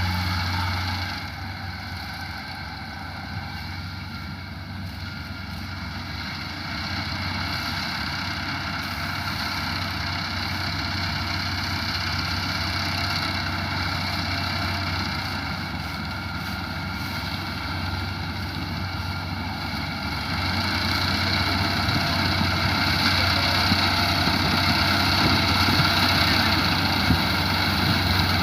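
Engine of a rice harvesting machine running steadily, growing louder about twenty seconds in.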